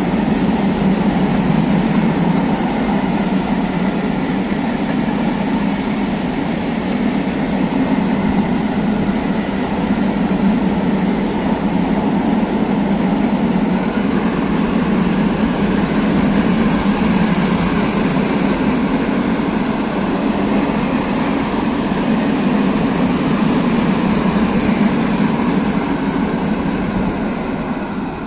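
A freight train of open steel gondola wagons rolling past close by: a steady rumble of the wheels on the rails, dropping away near the end as the last wagons move off.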